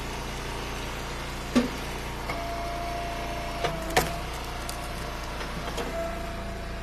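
Engine-driven Eastonmade wood splitter running steadily, with a steady whine from about two seconds in as it works and a few sharp knocks of wood, the loudest about four seconds in.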